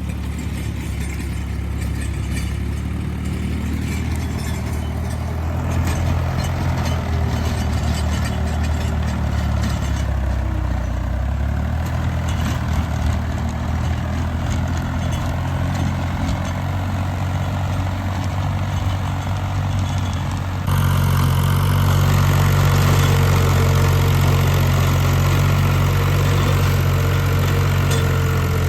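Tractor diesel engine running steadily. About two-thirds of the way in, the sound jumps suddenly louder, with a different, heavier engine tone.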